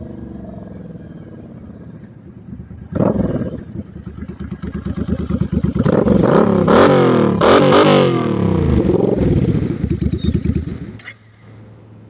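2002 Suzuki VL800's V-twin engine running through Vance & Hines straight-shot pipes with aftermarket silencers, idling, then blipped about three seconds in. From about five seconds it is revved repeatedly, rising and falling. The engine sound cuts off sharply near the end, leaving a faint low hum.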